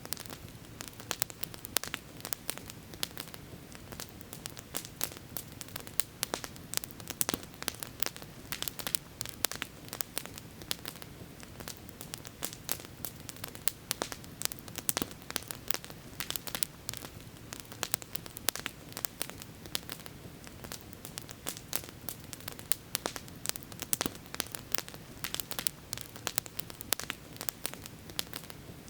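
Campfire burning with a dense, irregular crackle of sharp pops and snaps over a steady low rush.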